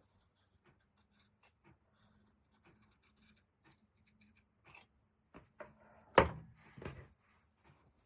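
Fabric scissors cutting small pieces of felt: faint, scattered snips and scratches. Near the end come two louder knocks of things being handled.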